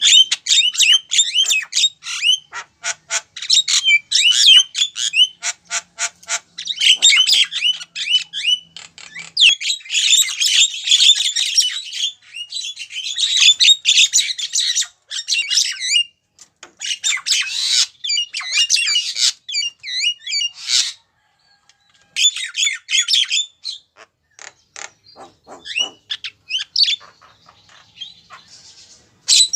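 Female Javan myna calling: bursts of rapid, harsh chattering and squawking notes, broken by short pauses and a longer lull near the end. This is a lure call meant to draw a male.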